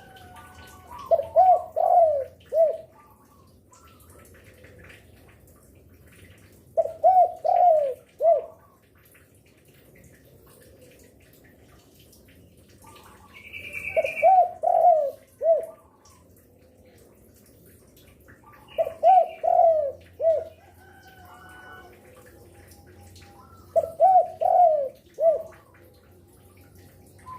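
Spotted dove (derkuku) cooing in five phrases of four or five coos each, about one every five seconds, with faint higher chirps from other birds between them.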